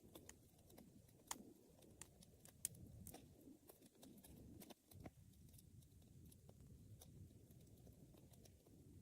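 Wood fire burning faintly, with a low, steady rumble of flames and scattered sharp crackles and pops from the burning wood. Two pops stand out, about a second in and again near the three-second mark.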